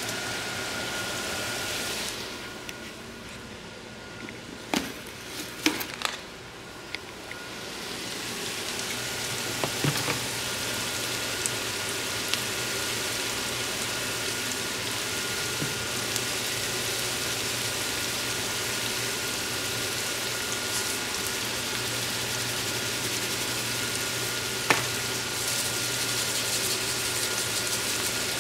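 Diced potatoes frying in oil in a cast-iron skillet, a steady sizzle. A few sharp knocks come between about five and ten seconds in, after which the sizzle grows louder and holds steady.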